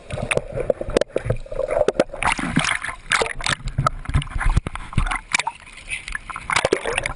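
Sea water splashing and sloshing close to the camera as people tread water, with frequent sharp knocks and rubs of water and hands against the camera housing.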